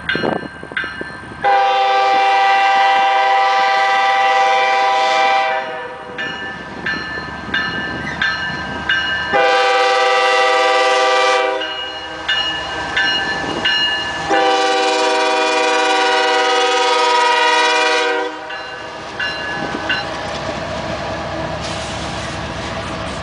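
Union Pacific GE Evolution-series diesel locomotive's air horn sounding three blasts: long, short, long. A rapid dinging repeats between the blasts. After the last blast only the steady rumble of the moving train is left.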